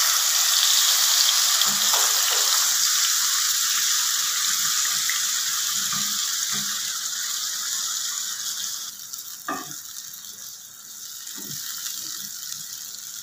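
Yogurt-marinated boneless chicken frying in hot oil on a medium-high flame, a loud, even sizzle that dies down after about nine seconds. A few light knocks come near the end.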